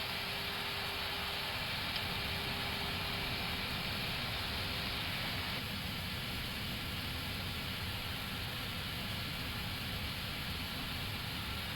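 Steady rushing air noise on the flight deck of an Airbus A321neo on approach, airflow and air-conditioning hiss with no change in power. A faint hum fades out about halfway, and there is a small click about two seconds in.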